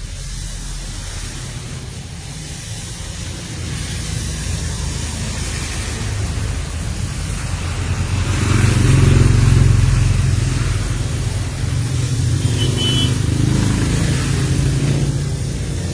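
Low, steady motor-vehicle engine rumble, swelling to its loudest about eight to ten seconds in and then easing slightly.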